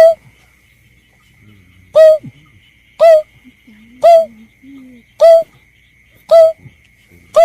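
Berkik bird lure call: a short pitched call note repeated about once a second, seven times in all. A faint steady high whine runs underneath.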